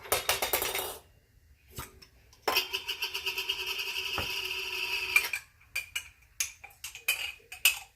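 A glass jar of homemade apple fig jam being handled with a spoon: a rasping scrape that lasts about three seconds in the middle, with short clinks and clicks of spoon and glass before and after it.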